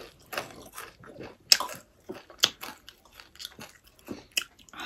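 Close-miked eating sounds: chewing with wet mouth smacks and several sharp clicks scattered through the moment.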